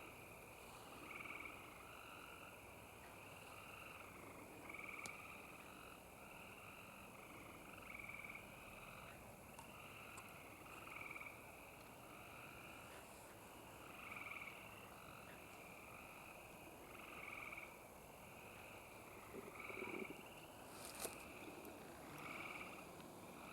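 A faint chorus of frogs calling from a swamp: short calls repeating about once a second, overlapping one another. There is a single sharp tap near the end.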